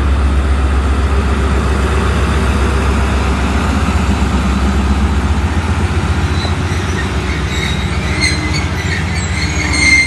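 Passenger train rolling slowly into the platform with a low rumble that eases about halfway through. Then the brakes squeal in several high-pitched tones, growing louder toward the end as the train slows to a stop.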